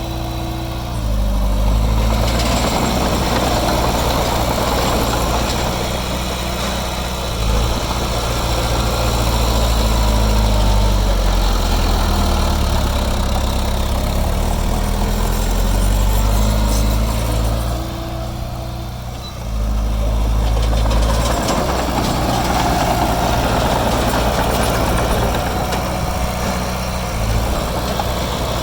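Diesel engine of heavy earthmoving machinery running steadily. The loudness drops briefly twice, about a second in and again about two-thirds of the way through, then picks back up.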